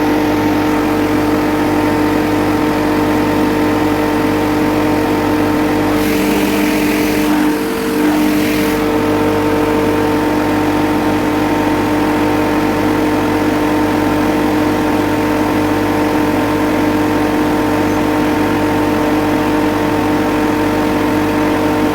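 Refrigerant recovery machine's compressor running steadily with a constant hum, with a hiss over it for about three seconds starting about six seconds in.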